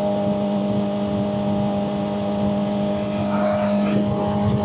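Suzuki GSX-R600 inline-four with an M4 exhaust running at steady, unchanging revs. A brief hiss comes in about three seconds in.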